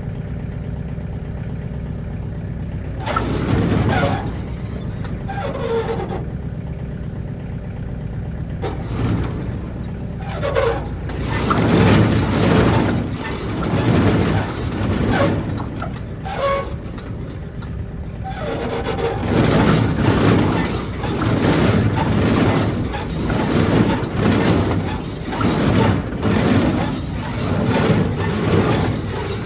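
Tractor engine running and driving the New Holland HayLiner 65 baler, the load surging irregularly at first, then in a regular beat about once a second in the second half like the baler's plunger stroking.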